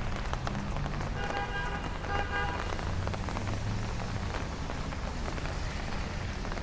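Steady rain falling on a city street, a dense patter of drops over a low steady rumble, with a faint brief pitched sound about a second in.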